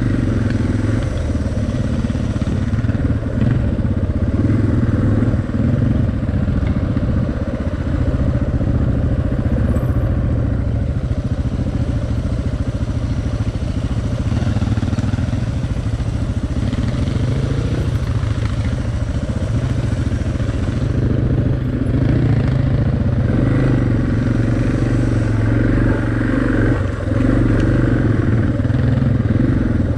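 Suzuki DR650's single-cylinder four-stroke engine running steadily under way.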